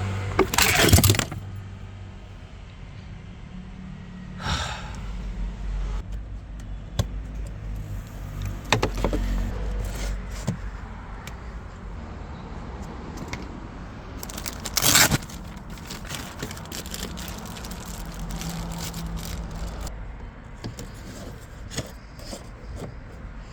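Irregular metallic clinks, knocks and scraping of hand work on a car, over a low steady rumble; the loudest knocks come about a second in and about fifteen seconds in.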